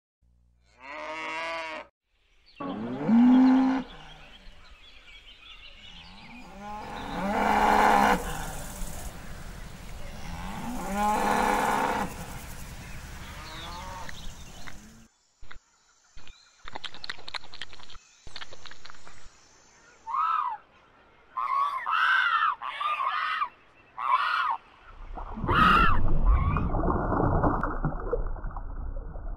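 Cattle mooing: four long lowing calls in the first half. After that come a run of sharp clicks, a few short higher-pitched calls, and near the end a steady low rushing noise.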